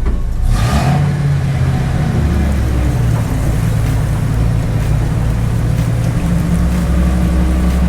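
A vehicle engine running steadily, its pitch stepping down a little about three seconds in and back up near the end.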